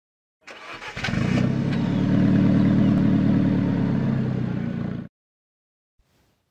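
Fiat 500L engine started: the starter cranks briefly, the engine catches about a second in and settles into a steady idle, then the sound cuts off suddenly about five seconds in.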